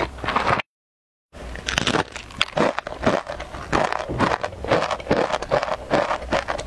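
Crispy rice crackers (guoba) being crunched and chewed close to the microphone, with many rapid crisp crunches. About a second in there is a brief gap of dead silence before the crunching resumes.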